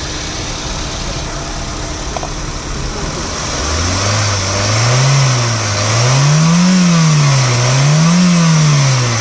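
2007 Honda City ZX's engine idling, then revved up and back down three times in smooth swells, starting about four seconds in.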